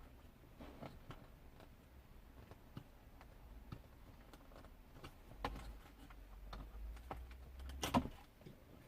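Scattered light clicks and taps of plastic dashboard trim and tools being handled during car audio removal, with the loudest click about eight seconds in.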